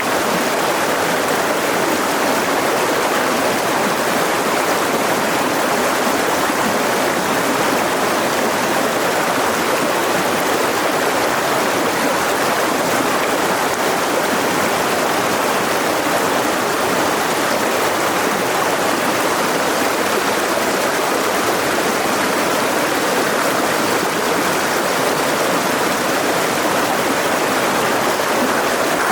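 Mountain river running over rocks: a steady, even rush of water with no breaks.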